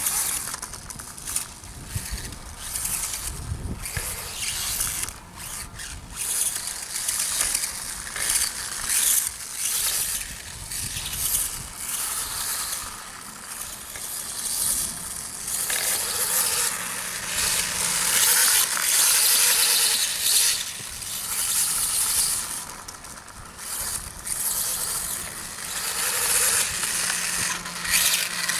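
Electric RC dirt bike running over rough ground. Its motor and drivetrain give a whirring, rattling sound that swells and drops every few seconds with the throttle.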